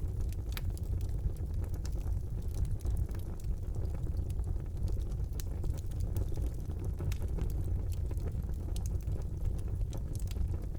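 Wood fire burning in a fireplace: a steady low rumble of flames with frequent small, sharp crackles and pops.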